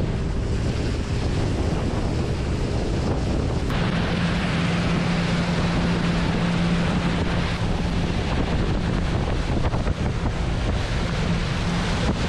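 Mercury EFI outboard motor pushing a pontoon boat under way, with heavy wind noise on the microphone and the rush of water. About four seconds in, the engine's steady drone and the wind and water hiss step up sharply, as when the throttle is opened.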